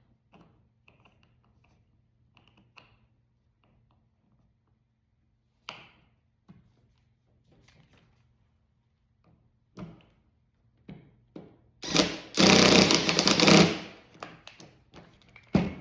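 Small metal parts and tools clicking and knocking as a mainspring vise is put together: crossbar, body and bolt. About twelve seconds in comes a loud, noisy burst lasting about two seconds, followed by a few more knocks.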